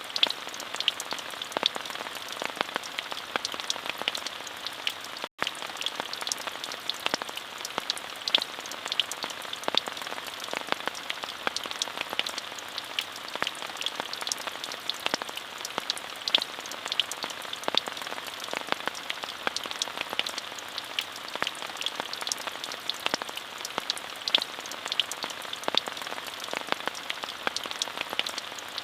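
Steady rain falling, an even hiss with many individual drops ticking sharply on top. The sound cuts out for a split second about five seconds in.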